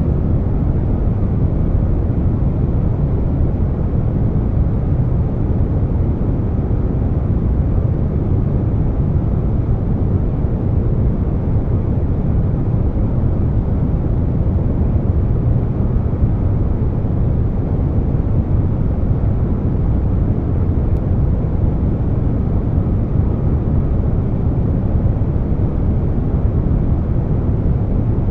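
Air conditioner running steadily, blended with brown noise: a deep, even rush that is heaviest in the bass, with no changes.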